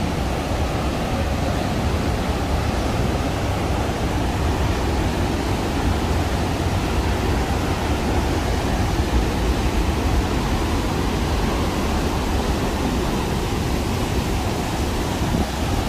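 Rhine Falls, a large waterfall, heard close up: a loud, steady rush of falling water, heaviest in the low end.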